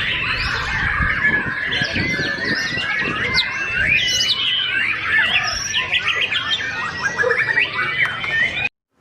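White-rumped shama (murai batu) singing a fast, varied song of whistles, trills and quick rising and falling notes, with a low background rumble; the sound cuts off abruptly near the end.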